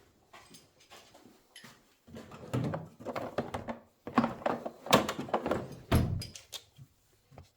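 Irregular knocks, clunks and clatter of parts being handled on a workbench, with a sharp thunk about six seconds in.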